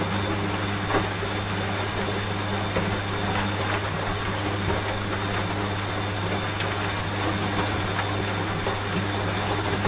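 Steady rain with scattered drop ticks, over the constant low hum of a washing machine running.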